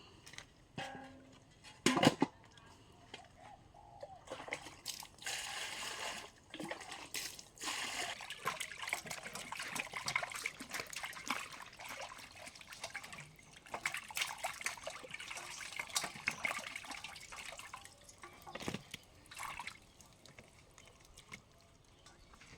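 Water sloshing, trickling and dripping in uneven spells, with small clicks and handling noises, after a single sharp knock about two seconds in.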